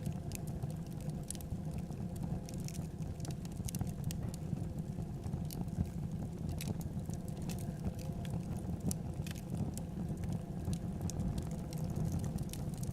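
Wood fire in a fireplace burning, with a steady low rumble and irregular sharp crackles and pops.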